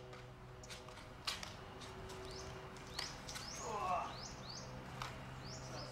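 Small birds chirping over and over in short high chirps, with a low steady hum under them and a few faint knocks. A brief louder pitched sound comes a little before four seconds in.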